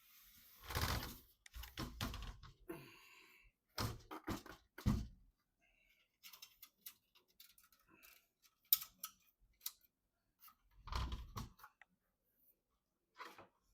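Hands handling PC parts during assembly: a few dull knocks among scattered sharp clicks and a short rustle.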